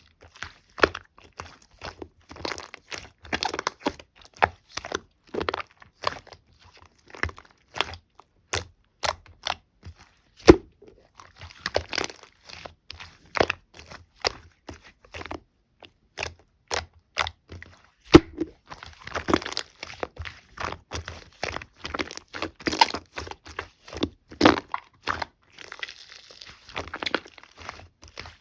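Slime topped with pastel clay meringue being squished and pulled by hand: irregular crunching and crackling with sharp sticky pops and clicks.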